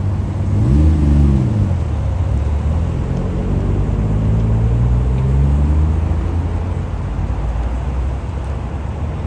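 Car engine running with a deep steady hum, its revs rising and falling quickly about a second in, then swelling more slowly and settling again in the middle.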